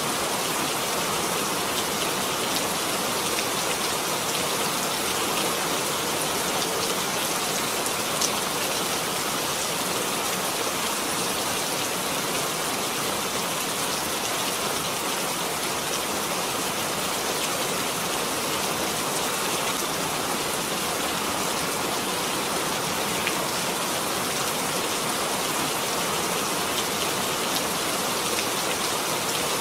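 Steady rain falling, a dense, even hiss of drops hitting surfaces with scattered individual drop ticks.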